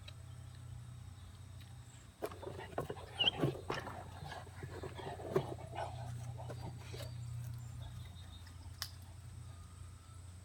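An Akita dog growling in play, in a run of rough, broken bursts from about two seconds in to about seven seconds in.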